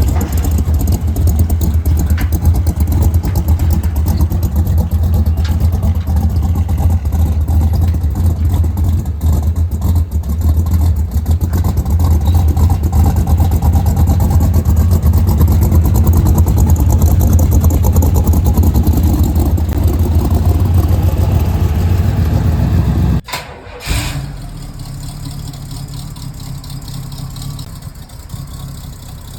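Car engine running loud and steady, a deep rumble with a fast, even pulse. About 23 seconds in it cuts off sharply to a quieter engine idling.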